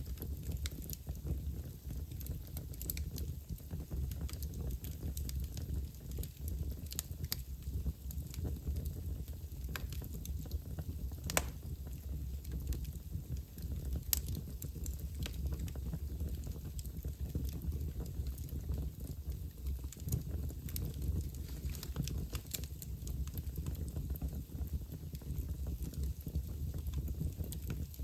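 Wood fire burning in a fireplace: a steady low rumble of the flames with scattered sharp crackles and pops, two louder snaps about eleven and fourteen seconds in.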